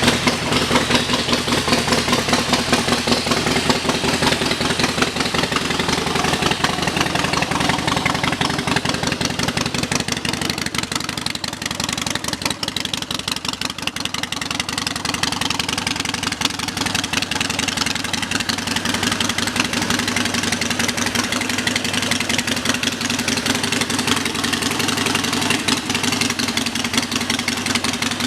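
2011 Harley-Davidson Sportster Forty-Eight's 1200cc air-cooled V-twin idling steadily through its exhaust pipes.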